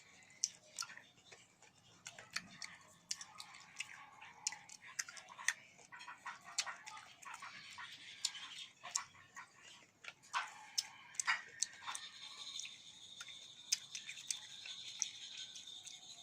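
Close-up eating sounds: chewing, with many sharp wet mouth clicks and smacks scattered throughout.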